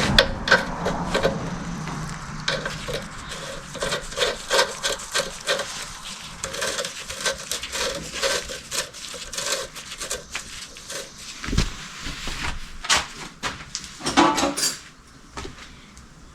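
Hand tools working on engine parts: a run of quick clicks and scrapes, about two or three strokes a second, with a few louder knocks near the end.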